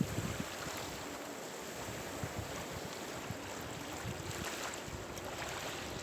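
Sea surf: a steady hiss of waves, with wind buffeting the microphone now and then in low gusts.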